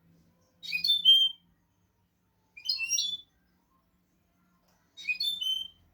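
A goldfinch-canary hybrid ('misto') singing the same short learned phrase three times, about two seconds apart. Each phrase is a quick run of high twittering notes that ends on a lower, drawn-out note.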